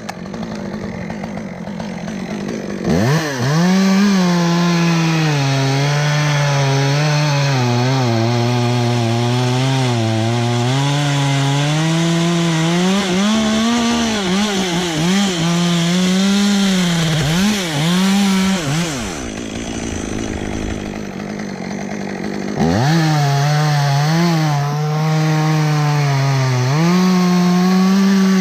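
Chainsaw cutting into dead elm wood, its engine pitch wavering up and down as the chain bites. It eases off for a few seconds about two-thirds through, then revs back up and cuts again.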